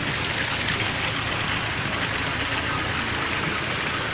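Steady rushing of floodwater with a vehicle's engine running low underneath.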